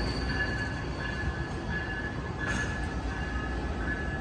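Amtrak Capitol Corridor passenger train rolling slowly into the station as it comes to its stop: a low rumble from the cars, with a high thin squeal that comes and goes.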